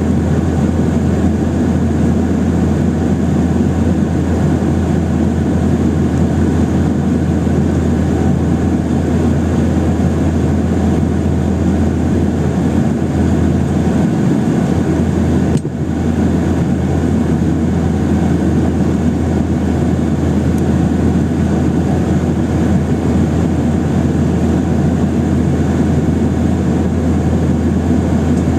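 Steady cabin drone of a Boeing 737-800's jet engines and airflow, heard from inside the passenger cabin, with a deep hum beneath a broad rushing noise and a brief dip about halfway through.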